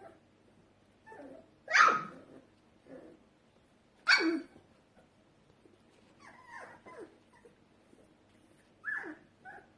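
A litter of young puppies whimpering and yelping, with two loud, sharp yelps about two and four seconds in and softer whines between.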